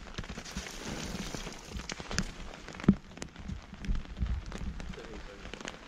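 Rain falling on a wet plastic tarp: a steady patter with scattered sharper drop taps, two of them louder about two and three seconds in.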